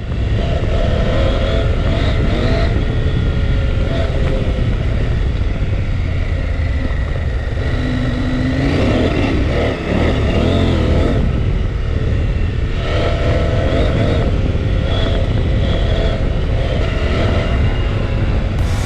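Motorcycle engine running under way on the trail, revving up and down with pitch swings about halfway through.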